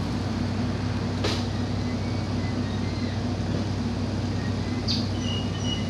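Steady, unbroken low mechanical hum of running machinery, such as an idling engine or a motor, with two short sharp sounds about a second in and again near the end.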